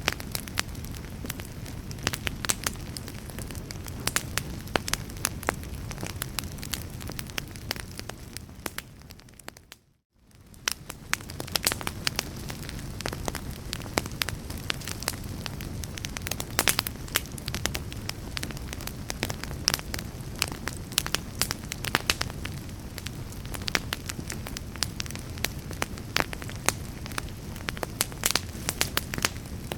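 Wood fire crackling, with frequent sharp pops and snaps over a steady low rumble. About ten seconds in the whole sound fades out to near silence and fades back in over a couple of seconds, like the join of a loop.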